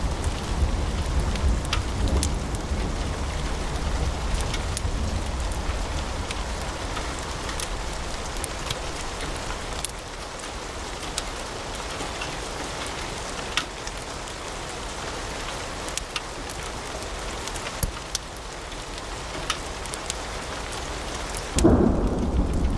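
Wood fire in a fireplace crackling, with scattered sharp pops over a steady hiss and low rumble. Near the end the sound turns suddenly louder and deeper, with the hiss dulled.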